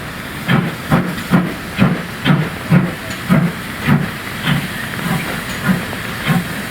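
Steam locomotive working, its exhaust beats coming about twice a second over a steady hiss of steam; the beats grow a little slower and fainter in the second half.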